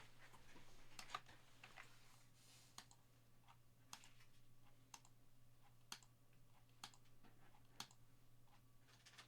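Faint, evenly spaced computer clicks, about one a second, as a list of names is randomized nine times, over a low electrical hum.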